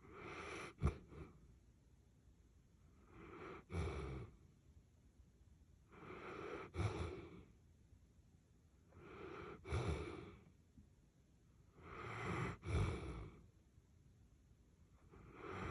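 Golden retriever snoring in its sleep: about five slow snoring breaths, one every three seconds, each swelling for about a second and catching sharply at its peak, with another starting near the end.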